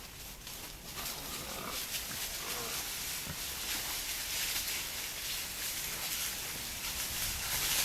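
Wild boar grunting a few times, short low grunts in the first few seconds, over a steady hiss.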